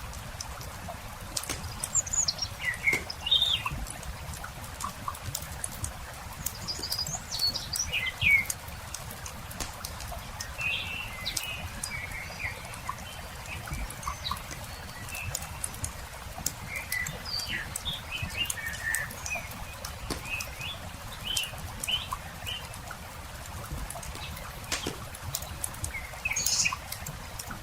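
Small birds chirping and calling in short scattered phrases, over the light crackle and pops of a wood campfire and a steady low rumble.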